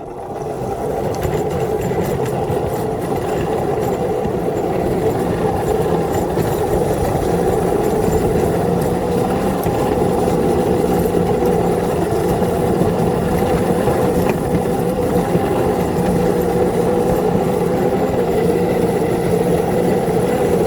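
Locomotive with traction motors running steadily under load as it pushes a snow plow along the track: a steady hum with a mid-pitched whine, building up over the first second.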